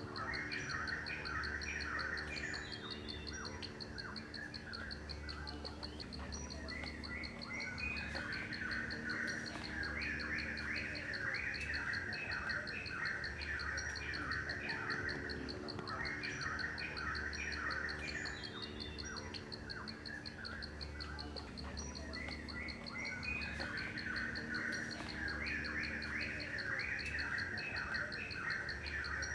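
Birds chirping in bursts over an insect's steady, high, rapid trill. The same pattern of calls comes back about every eight seconds, like a looped nature-ambience track.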